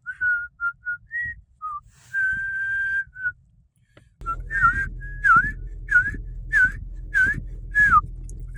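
Clear whistled notes around one pitch: a few short notes and a long held note, a second's pause, then a run of repeated dipping whistles about every half second over a low steady hum that comes in about four seconds in.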